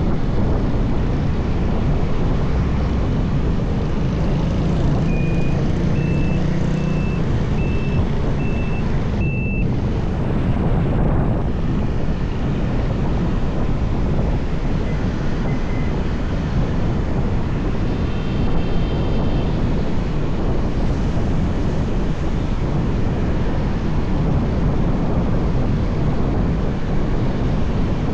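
Steady rush of wind, engine and traffic noise from a motorbike riding along a busy highway. A run of six short high beeps comes about five to nine seconds in, and a brief honk-like tone comes just past the middle.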